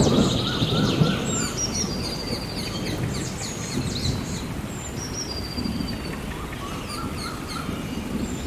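Rainforest storm ambience: a low rumble of thunder in the first second, easing off, over steady rain. Several birds call throughout in high whistles and quick chirps.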